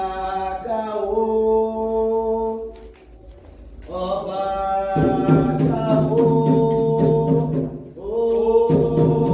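Candomblé chant (cantiga) sung call-and-response without drums: a lead voice sings a line, then a chorus of many voices answers it, twice.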